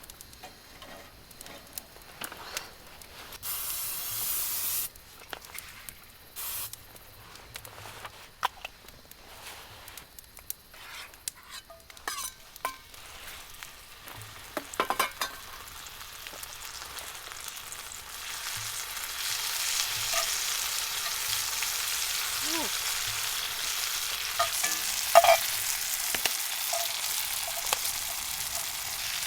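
Food frying and sizzling as it cooks, with clinks and scrapes of a utensil. The first part is mostly scattered clicks and brief hisses; about two-thirds of the way in, a steady sizzle sets in and continues.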